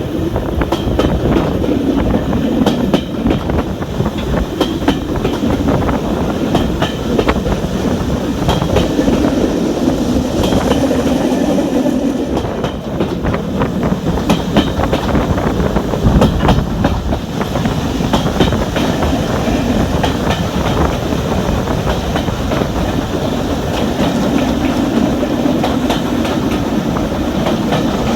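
Railway carriage running along the line, a steady rumble with the wheels clicking over rail joints.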